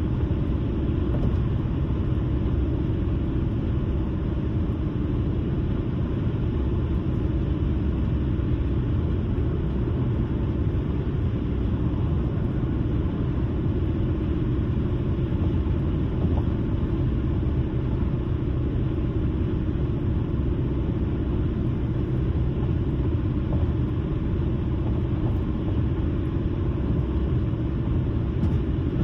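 A car driving at a steady speed: an even, low rumble of tyres on the road and the engine, with no changes or sudden sounds.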